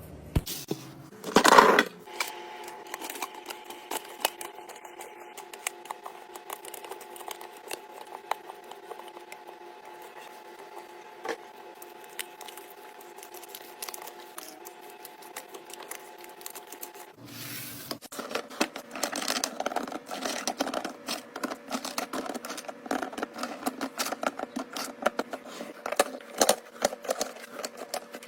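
Items being restocked into a fridge: a string of small clicks, knocks and scrapes as containers, bottles and packages are set down and arranged, over a steady hum. About seventeen seconds in the handling gets denser and louder.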